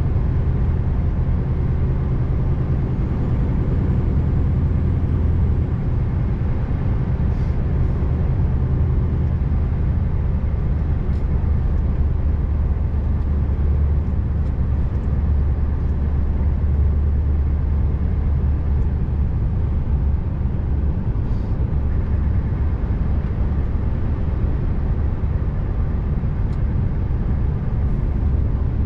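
Scania R590 V8 truck engine running steadily under way, a continuous low drone with road noise.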